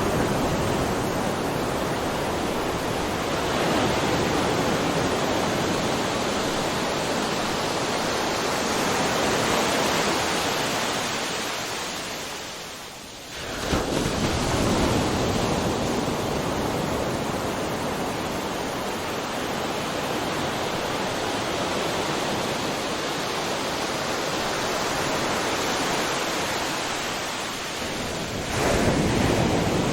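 Ocean surf: a continuous wash of breaking waves. It ebbs to a lull about twelve seconds in before the next wave breaks, and another wave breaks near the end.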